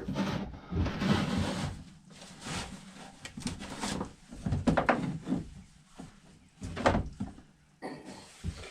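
Irregular knocks, clunks and rustling of small parts and tools being handled on a workbench during a carburetor teardown.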